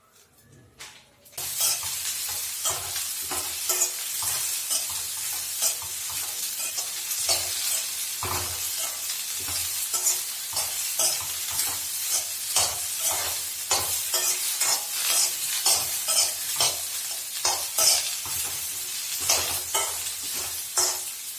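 Okra frying in hot oil in a pan, a steady sizzle that starts suddenly about a second and a half in, with frequent scrapes and clicks of a utensil stirring it against the pan.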